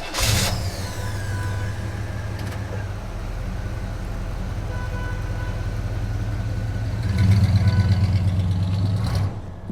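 Radio-controlled toy truck running with a steady low engine-like hum. It starts with a short noisy burst, grows louder about seven seconds in, and stops shortly before the end.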